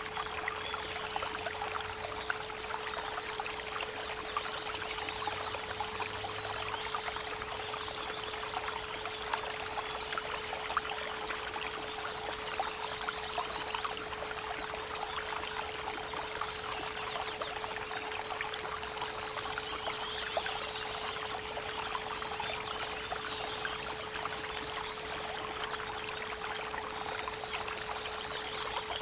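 Creek water running steadily under a constant 432 Hz pure tone, with a few short, high bird trills about a third of the way in and again near the end.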